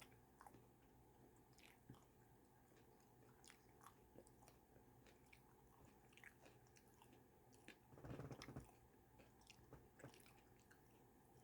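Faint chewing and small wet mouth clicks from a person eating a loaded chicken sausage sandwich, with a short louder burst about eight seconds in.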